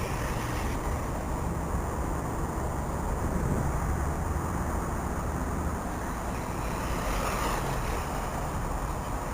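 Steady low rumbling noise with no distinct events, of the kind wind on a microphone or distant traffic makes.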